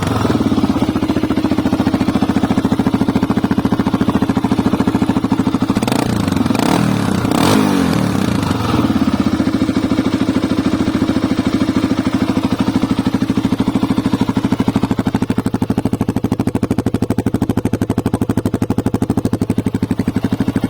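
Vehicle engine idling steadily with an even pulsing beat, given three quick blips of the throttle about six to eight seconds in before settling back to idle.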